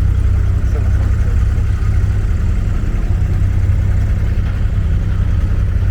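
Diesel engine of an abra, a wooden water taxi, running steadily underway with a loud, even low hum.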